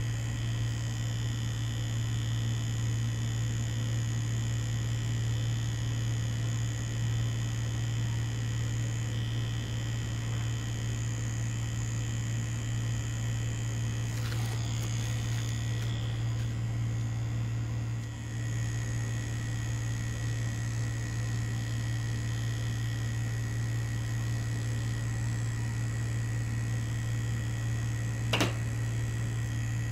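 Mummy Anubis tattoo machine buzzing steadily while it works a cartridge needle into fake skin, dipping briefly about two-thirds of the way through, with one sharp click near the end.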